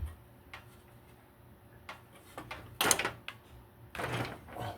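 Clicks, a knock and a couple of short scraping rattles as an electrical plug on a generator is pried and worked loose by hand. The louder scrapes come about three seconds in and again just after four seconds.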